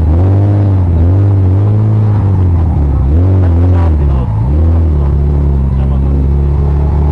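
A car engine revved in repeated quick blips, its pitch rising and falling about once a second, then held at a steady speed from about five seconds in. Loud.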